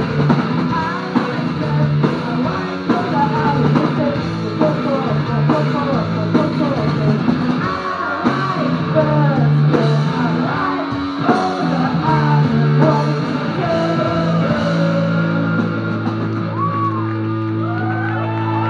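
Live psych-punk band playing loud: distorted electric guitar, drums and shouted singing. About fifteen seconds in the drums stop and a guitar chord is left ringing, with whoops from the crowd starting over it near the end.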